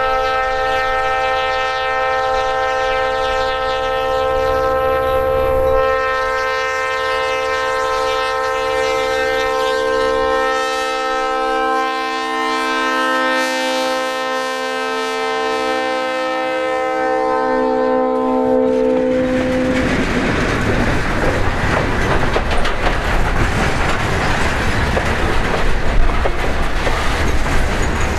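Diesel locomotive air horn, a chord of several notes, held in one long blast for about nineteen seconds and dropping slightly in pitch near its end. Then the steady rumble and clatter of the train's wheels rolling over the rails.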